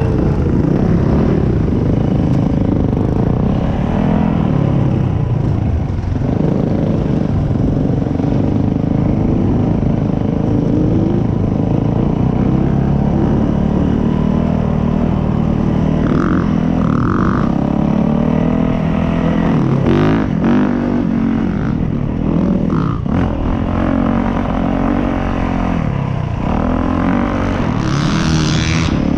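Dirt bike engine running while riding, its pitch rising and falling with the throttle. There are a few short knocks and a brief hiss near the end.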